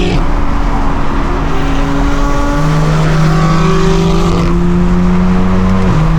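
Loud straight-piped BMW exhaust droning at a steady engine speed while driving. The note settles into one steady pitch about halfway through.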